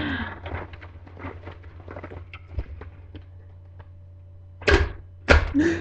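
Scattered small clicks and knocks, then two loud thuds near the end, about half a second apart.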